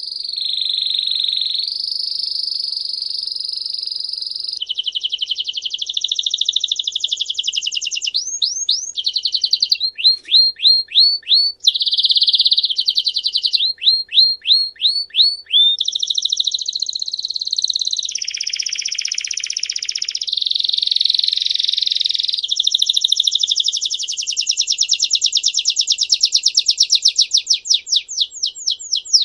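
A songbird singing one long, unbroken song of fast trills and rolls, switching every second or two between buzzing rolls and runs of quick repeated notes that sweep in pitch.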